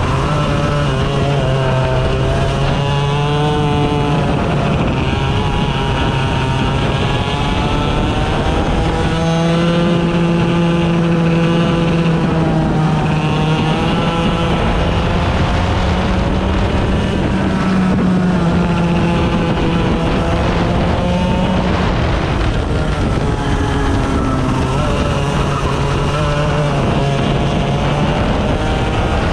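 Small 100cc racing engines running hard, their pitch rising and falling over and over as they accelerate and back off. At times more than one engine can be heard at once.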